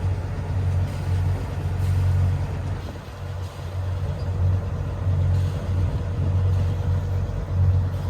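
Wind buffeting the microphone aboard a moving sailing yacht: an uneven low rumble that swells and eases, with a faint steady hum beneath.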